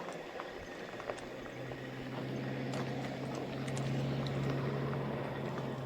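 E-bike riding along a dirt forest road: tyres crunching and ticking over gravel, with a steady low hum that comes in about a second in, swells to its loudest midway and fades near the end.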